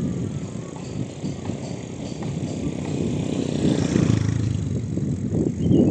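Wind rumbling on the microphone and road noise of a bicycle being ridden, uneven and growing louder from about three seconds in.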